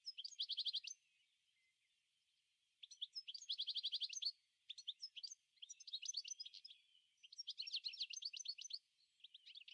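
A songbird singing in several phrases of rapid, high chirping trills, with short pauses between them.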